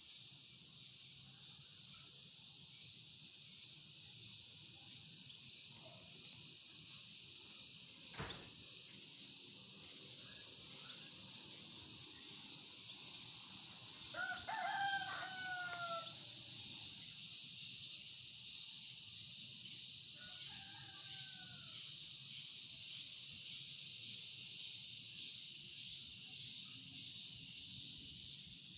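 A rooster crows about halfway through, one drawn-out call that falls in pitch at the end, and a fainter crow follows several seconds later. Under it runs a steady high insect hiss, with a single click about a third of the way in.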